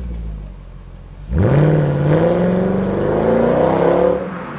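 Mercedes C63 AMG (W204) 6.3-litre V8 launched at full throttle a little over a second in, its engine note rising loud as the car pulls away, then fading near the end.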